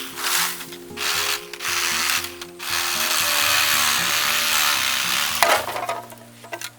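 Rasping, scraping noise of bamboo being cut: a few short strokes, then a longer stretch ending in a sharp crack about five and a half seconds in, over background music.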